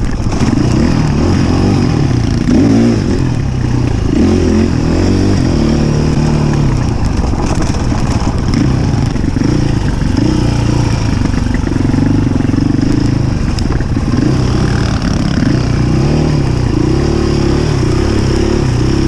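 Enduro dirt bike engine being ridden hard, revving up and down as the throttle opens and closes.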